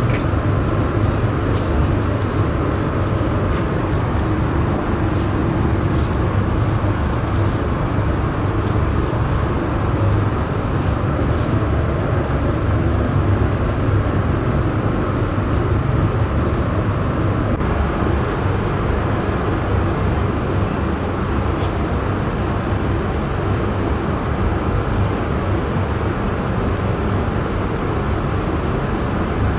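Steady cabin noise inside a Boeing 787-8 airliner: an even rush of air and engine drone, strongest in the low range, with a few faint clicks in the first half.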